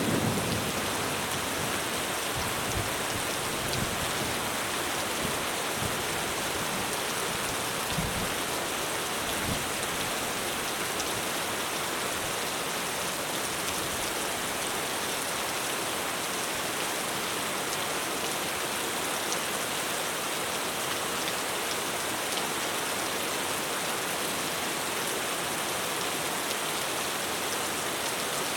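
Heavy rain pouring steadily on a roof. The tail of a thunder rumble dies away in the first second, with a few faint low rumbles over the next several seconds.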